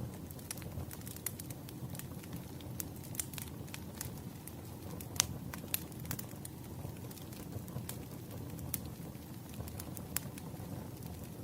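Wood fire burning: a steady low rumble of flames with irregular sharp crackles and pops of burning firewood, a couple of louder pops about five seconds in.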